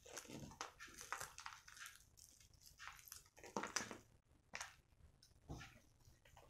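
Close-up chewing of crispy KFC fried chicken: irregular crunches and crackles of the breaded coating, a few louder bites in the second half.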